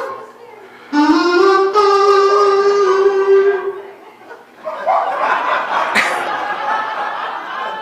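A single long note from a wind instrument, sliding up slightly at its start and then held for about three seconds. Then a hall audience responds with a sustained wash of crowd noise.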